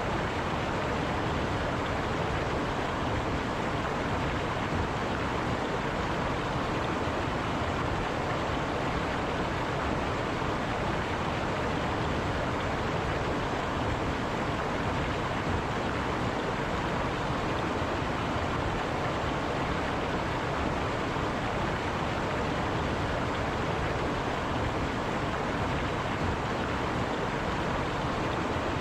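River water rushing and running over rocks in a steady, unbroken flow.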